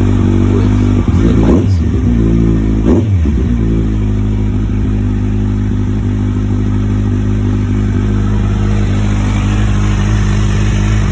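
Kawasaki Ninja 1000SX's inline-four engine idling through an aftermarket Delkevic exhaust, blipped into two quick revs about one and three seconds in, then settling back to a steady idle.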